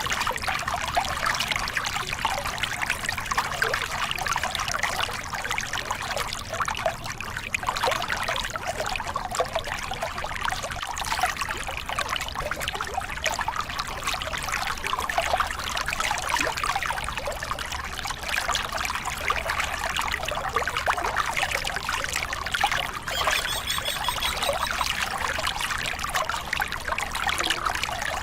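Water of a small river cascade pouring and splashing in a steady, unbroken rush.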